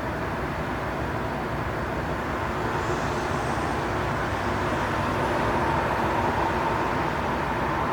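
Train station ambience: a steady, noisy rumble of idling trains and station machinery, getting slightly louder, with a faint steady whine that builds in the second half.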